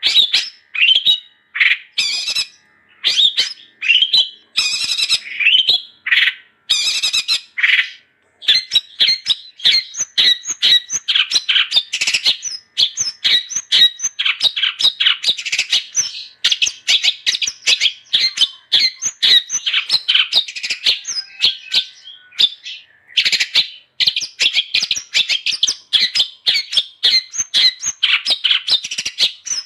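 Long-tailed shrike (cendet) singing a rapid stream of high, chattering and squawking notes. For the first several seconds it comes in short phrases with gaps, then it runs on fast and unbroken, with one brief pause about two-thirds of the way through.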